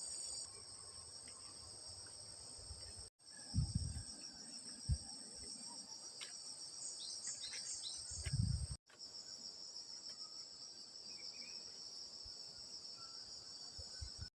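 Steady high-pitched chorus of insects, such as cicadas or crickets, with a few low thumps about four seconds in and again near eight seconds. The sound cuts out completely for an instant twice.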